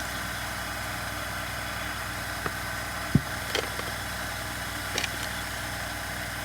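Light clicks of small chainsaw parts being handled and fitted, with one dull knock about three seconds in, over a steady low hum.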